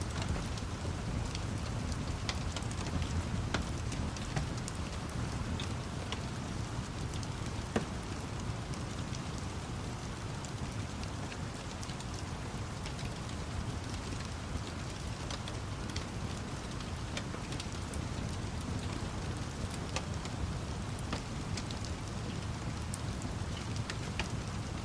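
Steady rain mixed with a wood fire crackling: a continuous hiss of rain with scattered sharp pops and crackles, one louder pop about eight seconds in, over a deep steady rumble.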